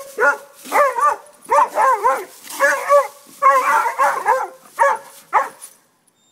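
A dog whining and yipping: a quick series of short, wavering, pitched cries that stops near the end.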